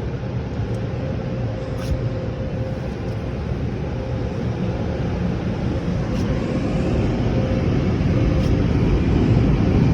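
Automatic car wash dryer blowers heard from inside the car's cabin: a steady rush of air with a faint steady hum, growing gradually louder as the blowing goes on.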